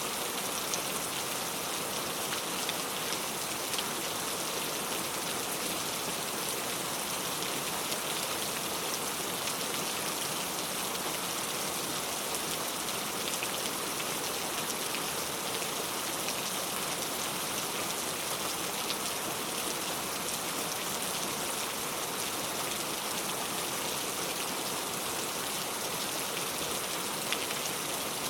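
Heavy rain falling steadily, a dense even hiss of raindrops with a few sharper drop ticks.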